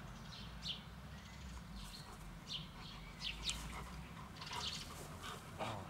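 Small birds chirping, many short, quick high calls scattered throughout, over a steady low outdoor rumble.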